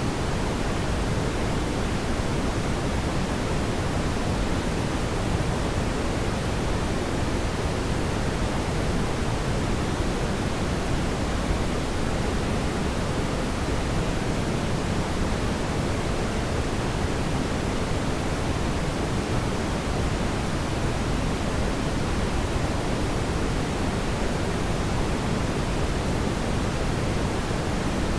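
Fire burning in a fireplace, heard as a steady, even hiss and rumble with no distinct crackles or pops.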